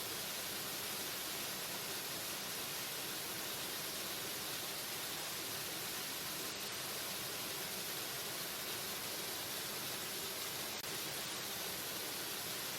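Waterfall: a steady, unbroken rush of falling water, even and hissy, with no changes in level.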